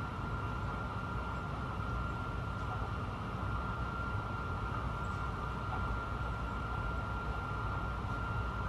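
Honolulu Skyline metro train running steadily along the elevated track, heard from inside the train: a constant rumble with a steady high whine.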